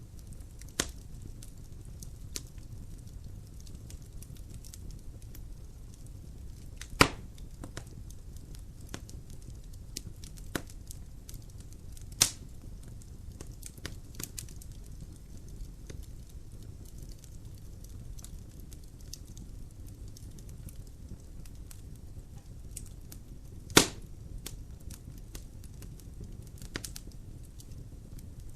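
Wood logs burning in a fireplace: a low steady rumble of flame under scattered crackles and snaps, with three sharp, much louder pops spread through.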